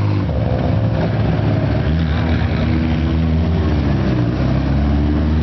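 Classic car with a loud aftermarket muffler, its engine running at low revs with a deep exhaust note that rises and falls slightly in pitch.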